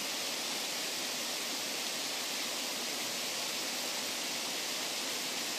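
Steady rush of flowing water, an even hiss without breaks, strongest in the high range.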